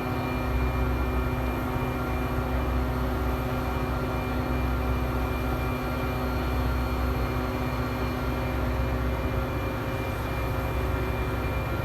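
Steady engine drone with a deep rumble and several steady tones, unchanging throughout.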